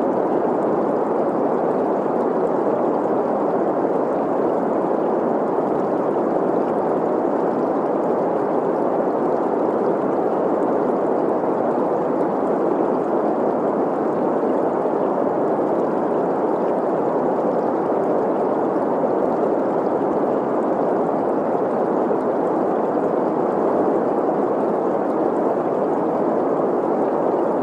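Green noise: a steady, unchanging hiss centred in the middle range around 500 Hz, mixed with the gurgle of a running stream.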